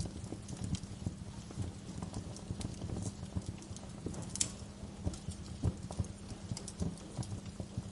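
Wood fire crackling in a fireplace: irregular sharp snaps, a few louder than the rest, over a steady low rumble of burning.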